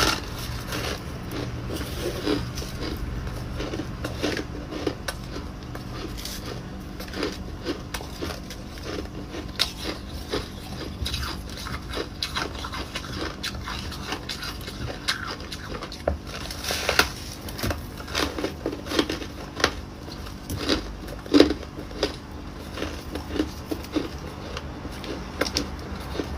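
Ice cubes being bitten and chewed, an irregular run of sharp crunches and cracks over a steady low hum.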